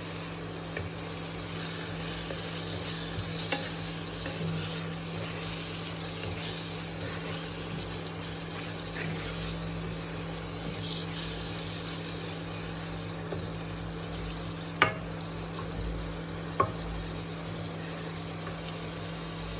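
Chopped onions sizzling in hot oil in a pan while being stirred, with a steady hum underneath. Two sharp taps sound near the end, likely from the utensil against the pan.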